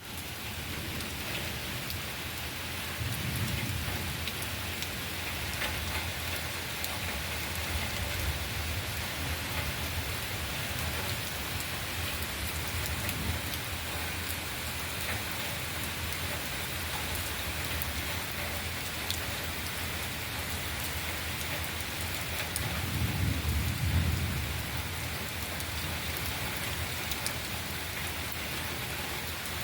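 Heavy rain falling steadily, with a dense patter of drops hitting surfaces. Twice a low rumble swells up and fades, a few seconds in and again later on.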